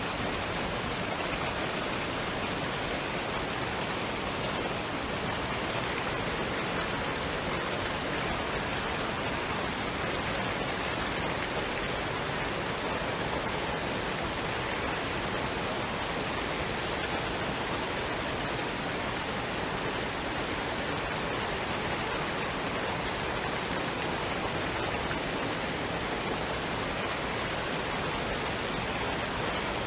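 Waterfall and stream water rushing as a steady, unbroken hiss.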